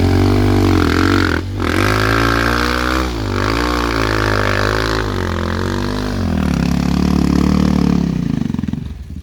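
Enduro dirt bike engine revving up and down again and again as the throttle is worked, with a dip about a second and a half in and the sound falling away near the end.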